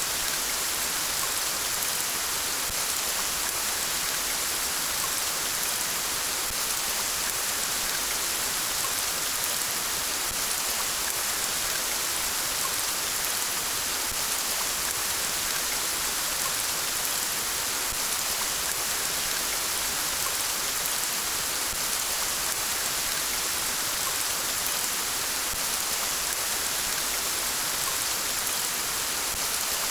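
Steady rain falling, an even hiss with the fine patter of drops on a surface, unchanging throughout.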